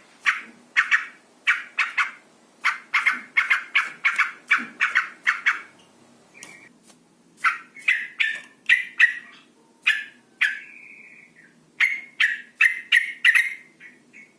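Yellow-vented bulbul, a female, calling in quick runs of short, sharp chattering "cuk-cuk" notes, with one short pause and one longer drawn-out note. It is a courtship call that draws males to sing.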